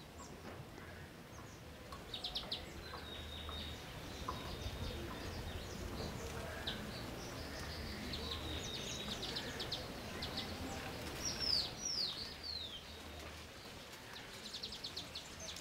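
Outdoor ambience with small birds chirping and trilling. About two-thirds of the way through, three quick falling whistled calls are the loudest sounds.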